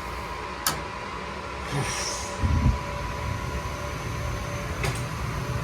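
Weil-McLain gas boiler running with its burners lit: a steady low rumble with a faint steady hum, a sharp click a little under a second in and a low thump around two and a half seconds in.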